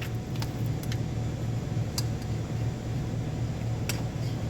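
A few sharp, separate clicks of parts and tools being handled during engine disassembly, over a steady low hum.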